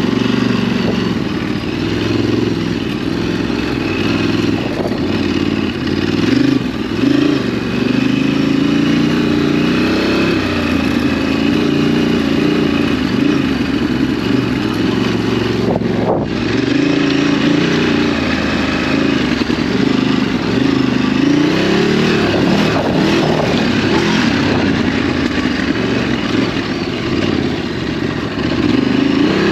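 Ducati DesertX's 937 cc L-twin engine pulling under load on a dirt ride, its revs rising and falling again and again as the throttle opens and closes.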